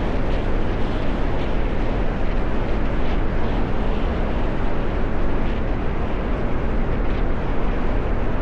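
Steady noise of a car on the move, with heavy wind buffeting on the microphone.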